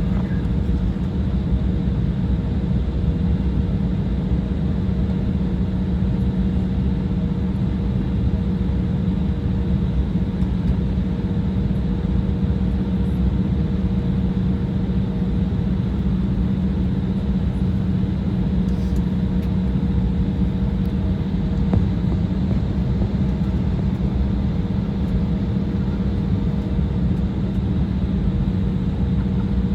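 Cabin noise inside an Embraer 175 airliner: its twin General Electric CF34 turbofan engines running steadily, a constant low rumble with a steady hum.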